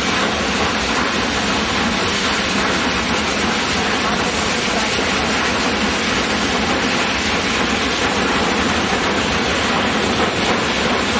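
Union Pacific 3985's passenger train rolling across a steel bridge: a steady, even rolling noise from the cars on the rails.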